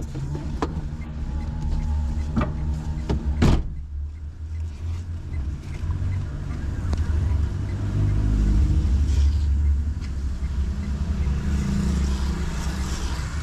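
Car driving along a street: a steady low engine and road rumble, with a few sharp knocks in the first few seconds, the last one loudest, and the rumble swelling twice later on.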